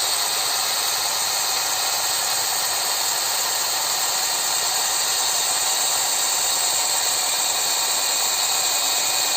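Kubota DC-93 combine harvester running steadily while cutting rice: a dense, even mechanical noise, strongest in the high pitches.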